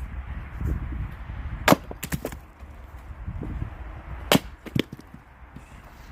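Firewood being split by hand: two sharp strikes into wood about two and a half seconds apart, each followed by one or two smaller knocks and cracks of splitting wood.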